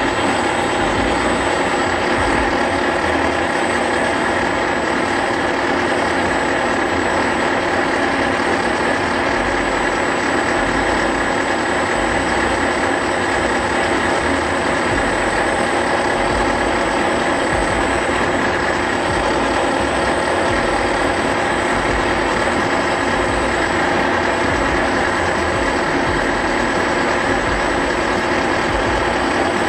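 Metal lathe running steadily, its motor and drive gearing giving a constant whir with a thin high whine.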